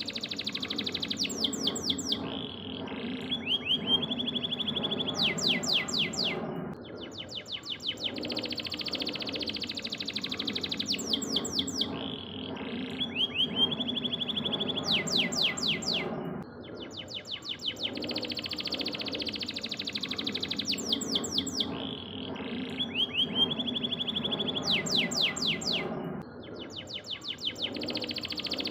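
Canary singing a continuous song of high, rapid trills and quick rolling notes. The same run of phrases repeats about every ten seconds, over a steady low hum.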